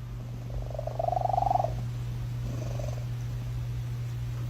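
A domestic cat purring steadily, with a short meow about a second in and a softer one a little later.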